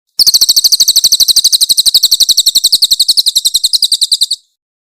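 Crested jay (cililin) calling: a long, fast string of high, sharp notes, more than a dozen a second, starting abruptly and stopping abruptly after about four seconds.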